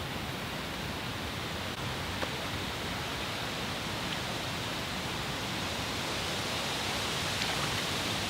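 Steady, even rushing noise of outdoor riverside ambience, with no distinct events.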